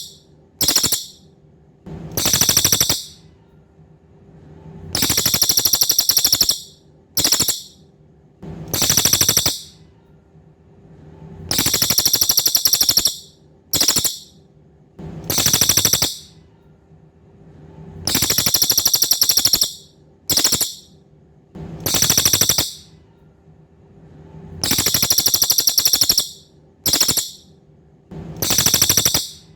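Cililin bird singing a loud, rapid rattling trill in a phrase of three bursts (long, very short, then medium) that repeats about every six and a half seconds.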